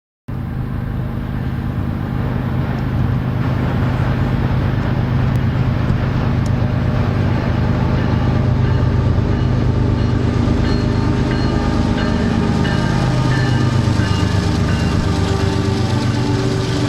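Diesel locomotives of a BNSF intermodal freight train running by with a steady engine drone; about three-quarters of the way through, the engine note drops lower.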